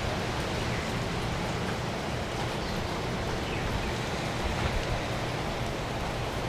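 A steady rushing noise, even and unbroken throughout.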